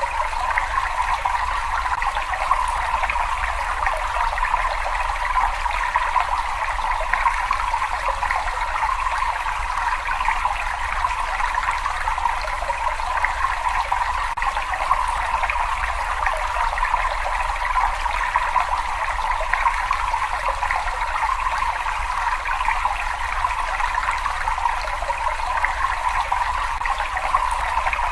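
Water running and trickling in a cave: a steady, unbroken rush with a low rumble underneath.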